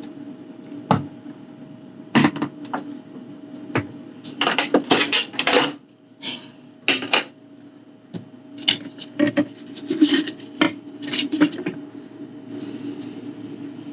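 Jars, bottles and food containers being picked up, knocked together and set down while sorting through a fridge: irregular clinks and knocks, with a longer run of rattling about five seconds in, over a steady hum.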